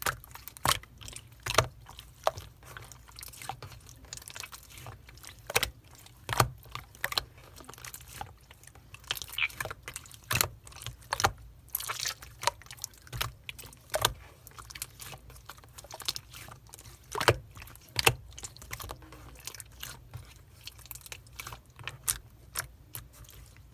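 Pink clear slime being squished and pressed by hand, giving irregular sharp clicks and pops, several a second at times, with a few louder pops spread throughout.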